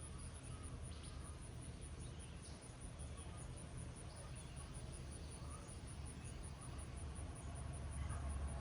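Steady hiss of summer rain, with a high insect call pulsing several times a second over it and a few faint bird chirps. A low rumble grows louder near the end.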